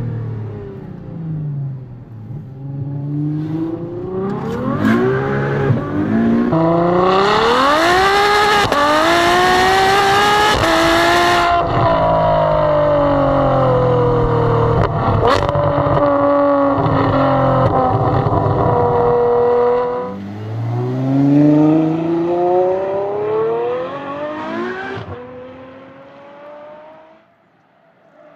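Ferrari F12 Berlinetta's 6.3-litre V12 through a Capristo aftermarket exhaust, accelerating hard with the pitch climbing and stepping through gear changes, holding loud high revs, then revving up once more before fading away as the car drives off.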